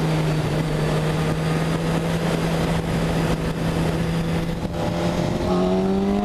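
BMW K1200S inline-four engine with an Akrapovic exhaust running at a steady cruise under wind rush. About five and a half seconds in, its pitch steps up and then climbs as the bike accelerates.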